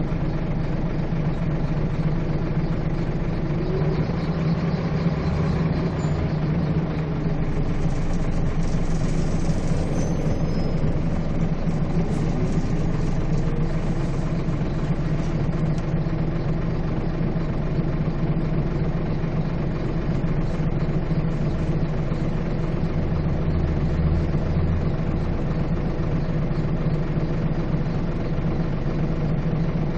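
Scania bus's diesel engine running with a steady low drone, heard from on board.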